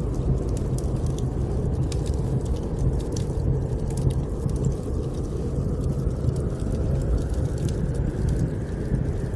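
Snowstorm wind as a steady low rumble, with a wood fire crackling in small, irregular clicks over it.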